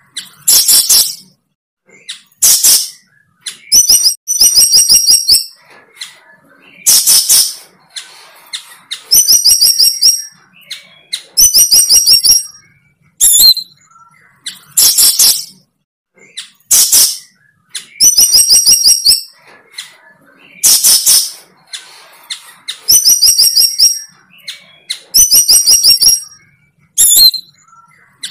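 A songbird singing close to the microphone: loud, high phrases of rapid repeated trilled notes and short chirps, one every second or two with brief pauses between.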